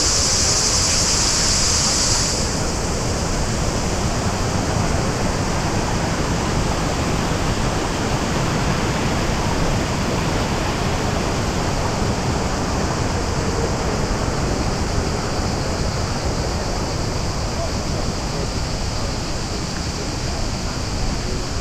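Steady rush of the Krka waterfalls' cascading water. A high, steady buzz sits over it for the first two seconds or so and cuts off abruptly.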